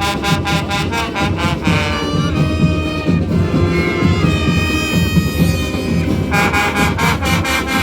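Marching band playing, brass over fast, steady drumming: long held horn notes through the middle, then short repeated brass stabs again near the end.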